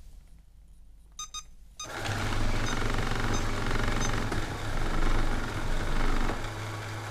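ILIFE V7 robot vacuum being started by hand: a short beep a little over a second in, then its motors start and run with a steady hum.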